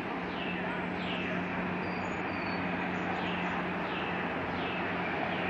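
A powerboat's engine running with a steady hum over the constant rush of fast-flowing floodwater. A bird calls repeatedly over it with short falling chirps.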